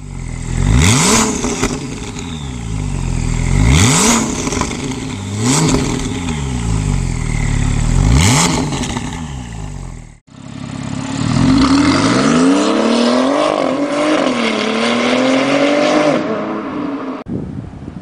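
Porsche 911 997.2 Turbo's twin-turbo flat-six through a stainless-steel straight-through Sound Version muffler, blipped four times in quick rev spikes that fall straight back. After a cut, one longer rise in revs holds and wavers for a few seconds, then dies away near the end.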